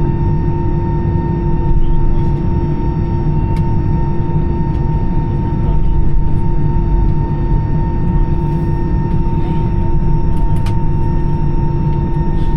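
Airbus A320's CFM56 engines idling during taxi, heard from inside the cabin: a steady low rumble with two constant whining tones. A few faint clicks.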